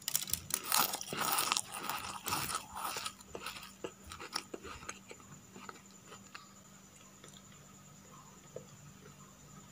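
Crispy rolled wafers being bitten and chewed close to the microphone: dense, crackly crunching in the first few seconds that grows sparser and stops about two-thirds of the way through.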